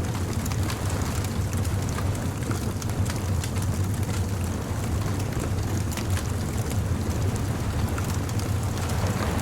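Bonfire crackling, with scattered sharp pops and snaps over a steady low rumble.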